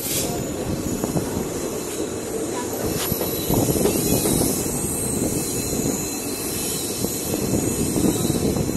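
Passenger train rolling through a station, heard from the open doorway of a coach: a steady rumble of steel wheels on the rails.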